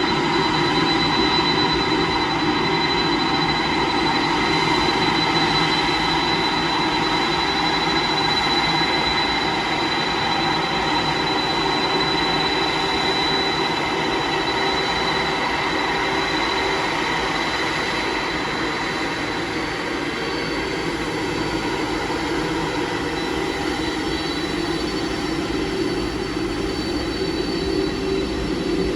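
Jet airliner engines running steadily: a constant whine in several pitches over an even rushing noise.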